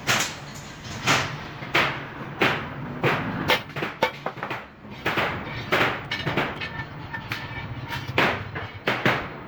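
Hammer blows on stainless steel sheet, struck unevenly at roughly one or two a second, each with a short metallic ring.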